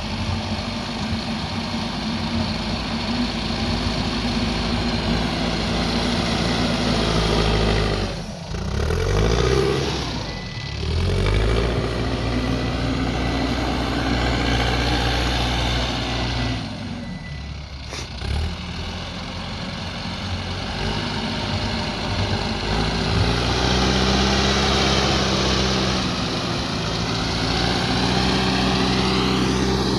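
Backhoe loader's diesel engine running under working load, its speed dropping briefly several times and climbing back up, with the pitch rising again in the last few seconds.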